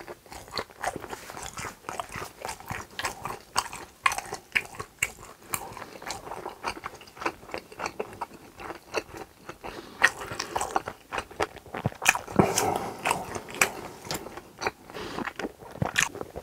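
Close-miked chewing of a mouthful of grilled pork intestines (gopchang): a continuous run of wet mouth clicks and smacks, busiest from about ten to thirteen seconds in.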